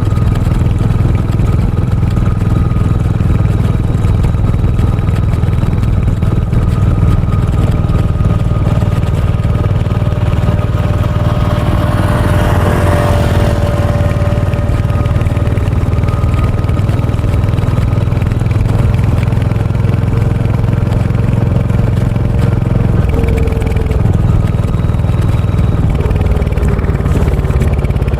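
Royal Enfield Hunter 350's single-cylinder engine and exhaust running steadily while the motorcycle is ridden. About halfway through, a hiss swells and fades for a couple of seconds.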